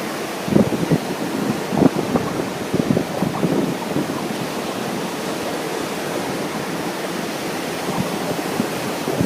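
Wind buffeting the microphone in irregular gusts over the steady wash of ocean surf; the gusts come in the first few seconds, ease off, and pick up again at the end.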